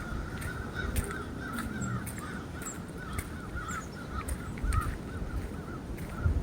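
A flock of birds calling over and over without a break, with footsteps and the rustle of a walker underneath.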